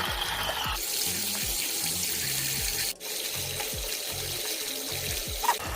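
Water churning and swishing in a small portable washing machine as it spins its wash load, over background music with a steady beat. The sound drops out for an instant about three seconds in.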